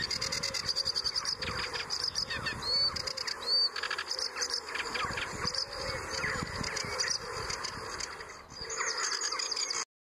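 Sedge warbler singing from the reeds: a fast, unbroken chatter of short scratchy notes with a few rising whistled notes, cutting off abruptly near the end.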